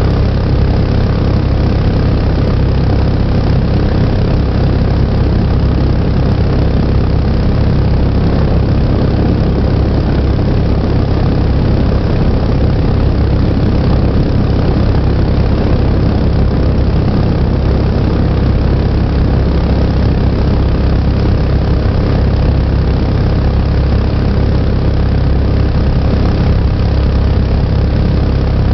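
Mokai jet boat's small gasoline engine running steadily at a constant speed, loud and unchanging throughout.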